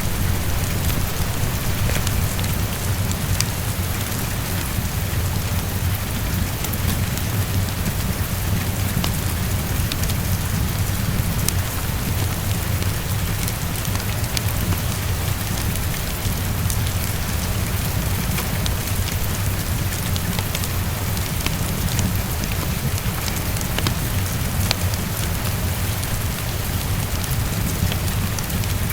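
Heavy rain falling steadily against a window, over a constant low rumble, with scattered sharp ticks and crackles of a fireplace.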